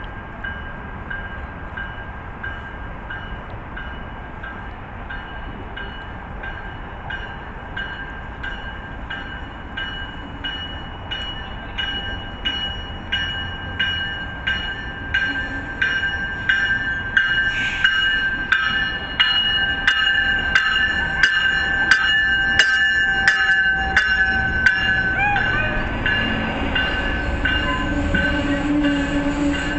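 MBTA commuter rail locomotive bell ringing steadily, about one and a half strokes a second, growing louder as the train draws into the station; a low steady tone from the train comes in near the end.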